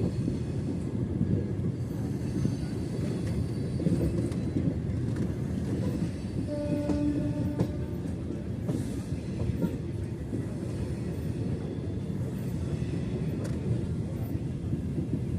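MEMU electric passenger train running along the track, heard from on board: a steady rumble of wheels on rail with a few faint clicks. About seven seconds in, a single pitched tone sounds for about a second.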